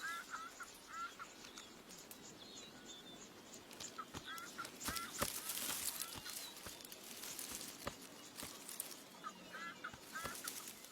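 A bird calling in short phrases of several quick curling notes, the phrases coming near the start, about halfway and near the end, over faint outdoor rustling with scattered sharp clicks.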